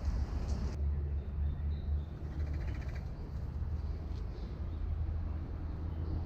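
Steady low rumble on the microphone, with faint bird calls over it, including a harsh, buzzy call about two seconds in.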